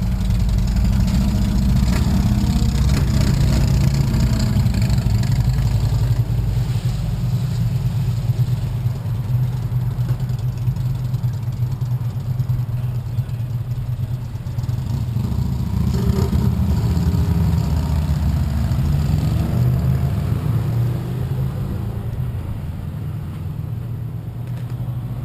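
Sport-bike engine idling steadily.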